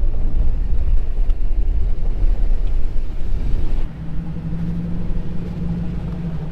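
A vehicle engine running with a heavy low rumble. About four seconds in, the rumble eases and a steady engine hum takes over.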